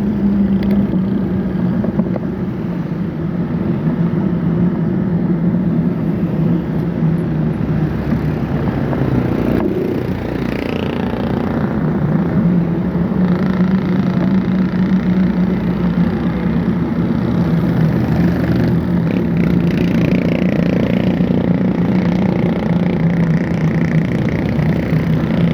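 Motor vehicle engine running steadily on the move, with road and wind noise; its pitch dips a few seconds in and climbs again around the middle.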